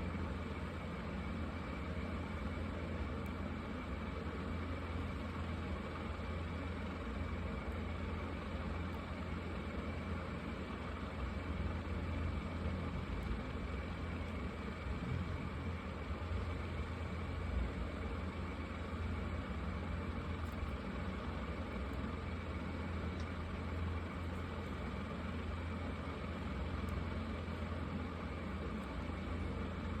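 Felt-tip markers scratching across paper over a steady low hum.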